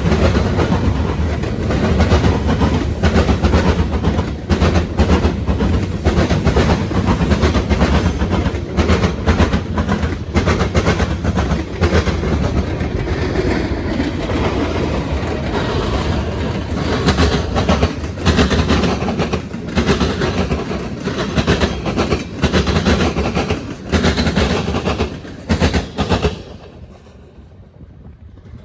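Freight train wheels pounding over railroad diamonds (flat track crossings), a loud, continuous clatter of sharp bangs as car after car crosses. The noise drops away suddenly near the end.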